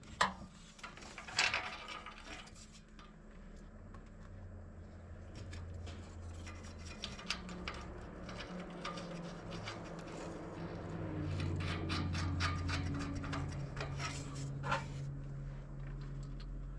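Hand tools clinking and scraping on metal, with a few sharp clicks and a denser run of clicking and rubbing through the middle, over a low hum.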